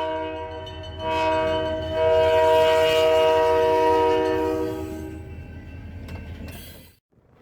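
Diesel locomotive air horn sounding a sustained multi-note chord over a low rumble, swelling louder about one and two seconds in, then fading and cutting off near the end.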